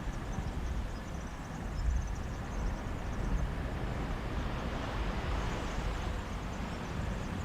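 Mediterranean sea waves washing onto a beach, a steady surf with one wave swelling louder around five seconds in, and a sea breeze rumbling on the microphone.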